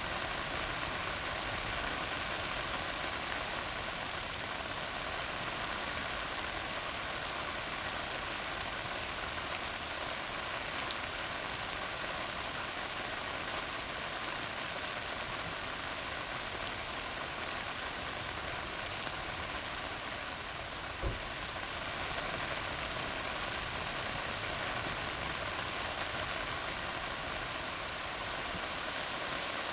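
Steady rain falling on a tar road, a constant hiss with faint scattered drop ticks. A single sharper tap comes about two-thirds of the way through.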